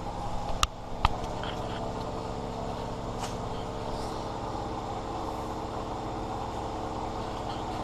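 Freshly swapped carbureted engine in a Chevy S10 pickup idling steadily, with two sharp clicks about a second in. The owner says the engine still has a vacuum leak, which he thinks is probably the carburetor gasket.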